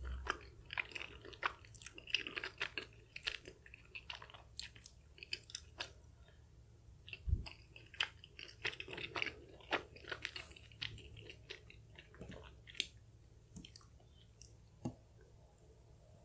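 Close-up chewing of chewy, sticky Korean spicy rice cakes (tteokbokki): wet, sticky mouth clicks and smacks, thick for the first ten seconds or so and then thinning out. There is one dull knock about seven seconds in.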